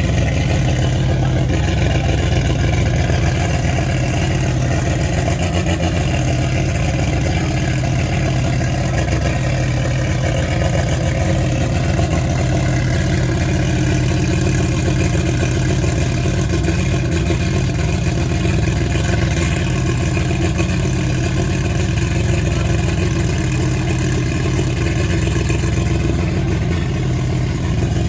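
A car engine running at a steady, constant drone with a strong low rumble and no clear revving.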